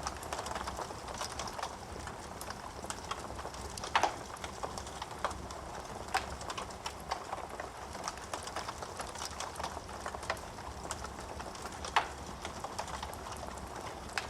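Wood fire burning in a fireplace, crackling with irregular small pops over a soft steady hiss. Two sharper, louder pops stand out, one about four seconds in and one near the end.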